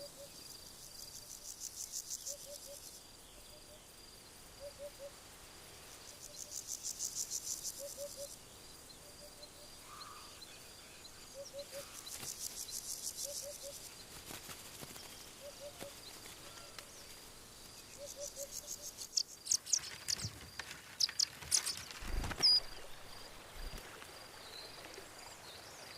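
Forest ambience of insects trilling, in pulsed high buzzing spells of a few seconds over a faint steady high tone. Soft low two-note calls repeat every second or two. Sharp bird chirps come in a cluster past the middle, with a couple of dull thumps among them.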